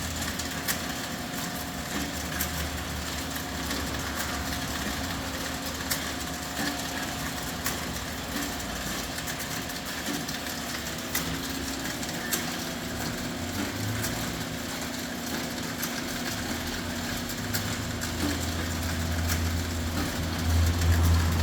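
Food-processing conveyor machine running steadily with a low hum and scattered light clicks; the hum grows louder in the last few seconds.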